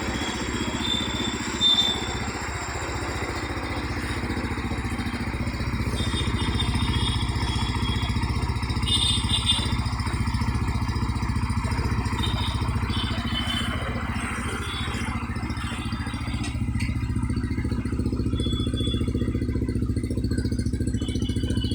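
Benelli 250 cc motorcycle engine idling steadily, with a short sharp click about two seconds in.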